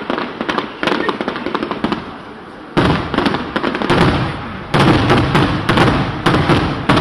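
Fireworks display: rapid crackling bangs, then from about three seconds in a louder run of deeper bangs in quick succession.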